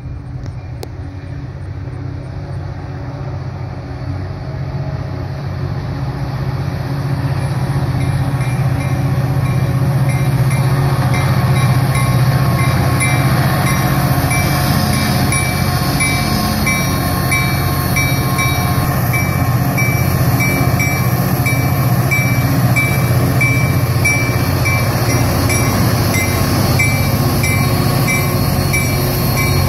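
Metra diesel locomotive hauling a train of bilevel commuter coaches as it approaches and passes, its engine running steadily and growing louder about a third of the way in. A bell rings on through the pass at about one strike a second, as is usual for a train coming into a station.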